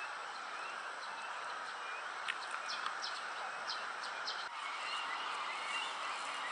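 A few short, high bird chirps in quick succession over steady outdoor background noise, with fainter calls later on.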